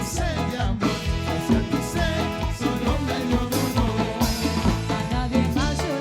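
Live tropical band music with a steady, busy beat of bass and drums and pitched melody lines, played without transcribed lyrics here.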